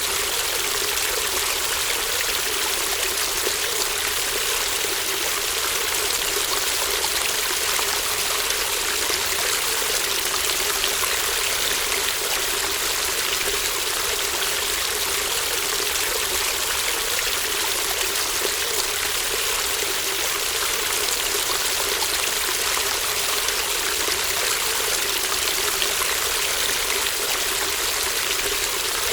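Babbling brook, a shallow stream flowing steadily: a continuous, even rush of water with no breaks.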